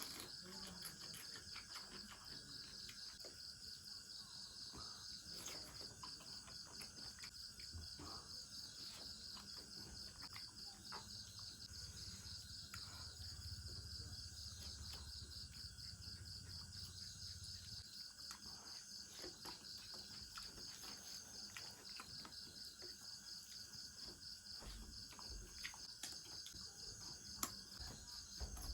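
Insects, likely crickets, trilling steadily in a fast pulsing chirp, with faint scattered clicks and smacks of someone eating.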